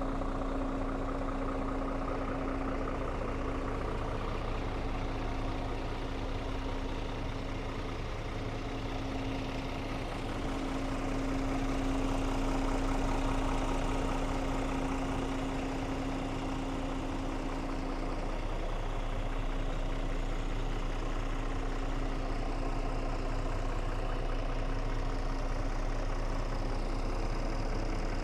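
Scania R450 tractor unit's 13-litre inline-six diesel engine idling steadily, with a constant hum over the engine note.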